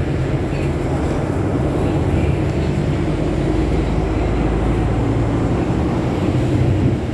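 Scania city bus engine running steadily, a low drone with a slight swell near the end.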